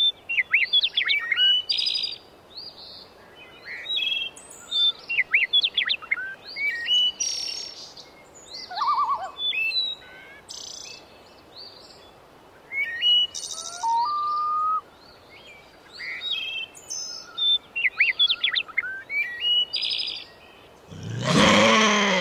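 Songbirds singing and calling: many short high chirps, quick trills and whistled sliding notes, one after another. Near the end a loud drawn-out voice-like call, falling slightly in pitch, rises over them.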